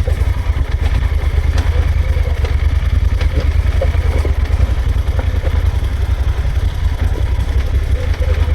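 Motorcycle running while being ridden, a steady heavy low rumble with a few faint clicks.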